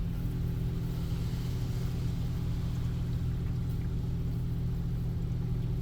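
Automatic car wash machinery running through the rinse stage with a steady low hum, heard from inside the car.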